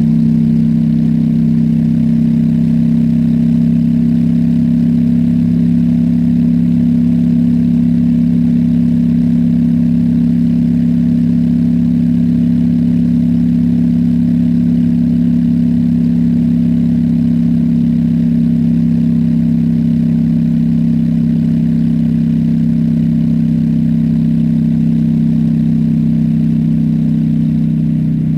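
Honda Shadow V-twin motorcycle engine running at a steady speed, a loud, even low drone that holds one pitch and eases slightly lower near the end.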